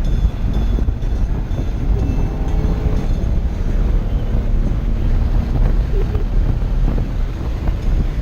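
Race car engine and road noise while driving: a steady low rumble.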